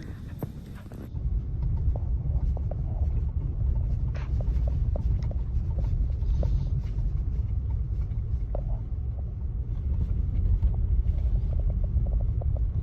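Steady low rumble of a car driving on the road, with a few faint ticks over it.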